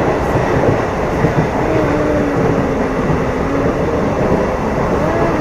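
MEMU electric passenger train running: a steady, loud rumble heard from inside the carriage.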